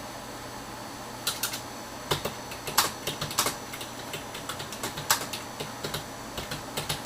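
Typing on a computer keyboard: irregular keystrokes starting about a second in, over a steady background hum.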